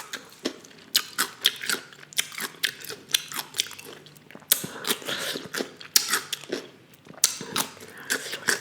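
Close-up mukbang chewing and biting of a seafood-boil meal of lobster tail in butter sauce: a dense run of quick mouth clicks and crackles.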